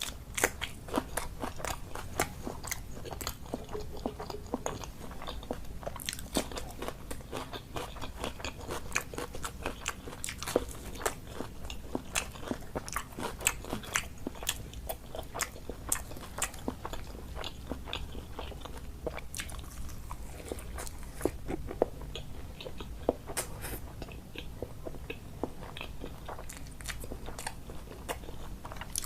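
Close-miked eating: chewing and biting with many small crisp crunches and wet mouth clicks, irregular and continuous.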